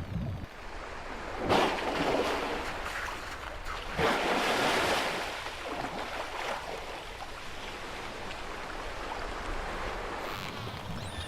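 Killer whales surfacing in an open lead in the sea ice and blowing: two loud whooshing breaths, about a second and a half in and again about four seconds in, over a steady wash of water and wind.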